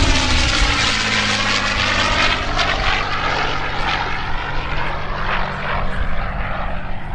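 A P-51D Mustang's Packard Merlin V12 engine and propeller during a low flyby, its note sweeping as the fighter passes closest about a second and a half in and then draws away.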